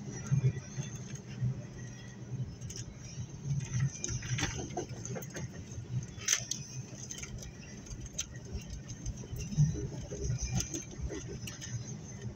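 Double-stack intermodal container train rolling past, its steel wheels clicking and clattering over the rails with a steady low rumble underneath, heard from inside a car at the crossing.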